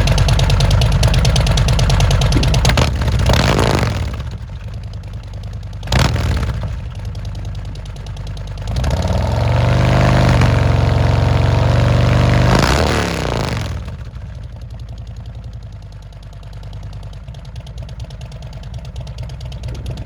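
Harley-Davidson Milwaukee-Eight V-twin through S&S Power Tune headers and SVT Jackhammer mufflers, idling with a deep exhaust note. It is blipped twice, then revved up and held high for about four seconds before dropping back to idle.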